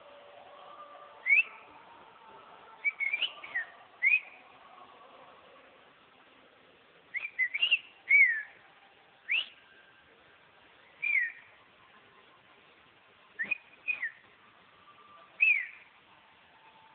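Fledgling bird calling: short, clear whistled chirps, each a quick slurred glide, given singly or in quick runs of two or three with pauses of a second or more between them.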